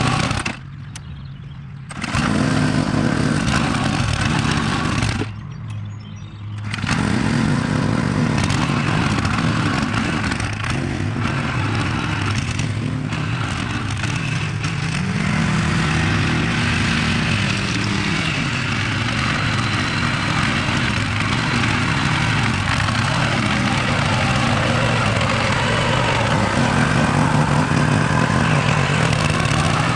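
Engine running steadily, with a continuous hum and hiss. Its sound twice drops away sharply for a second or so within the first seven seconds, then carries on unchanged.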